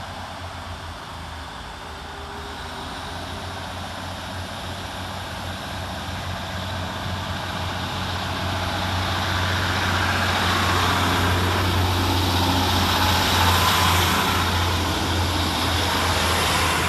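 Class 150 Sprinter diesel multiple unit departing, its underfloor diesel engines running under power with a steady low drone that grows gradually louder as it pulls out.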